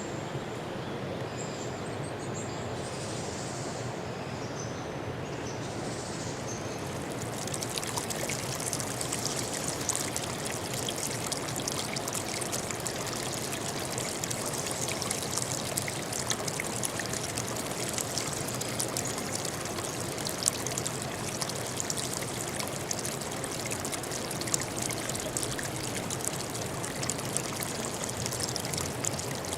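Clear forest stream flowing and splashing over rocks, a steady rush of water. A few faint high chirps sound in the first few seconds, and from about seven seconds in the splashing grows brighter and crisper.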